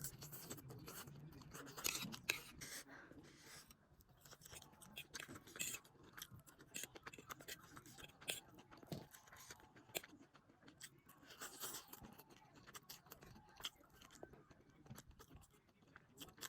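A person eating spicy noodles with sausage and eggs: faint, irregular chewing with many short wet clicks, a little louder about two seconds in.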